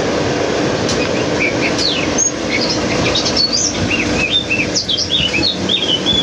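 Small birds chirping: quick, short high notes in rapid runs, starting about a second and a half in and growing busier toward the end, over a steady rushing noise.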